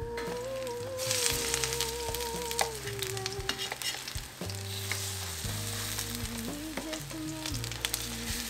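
Pancake batter frying in hot oil in a stainless steel pan, sizzling and crackling, with light scrapes and taps of a wooden spatula as the pancakes are pressed and turned. The sizzle picks up about a second in, and soft background music runs underneath.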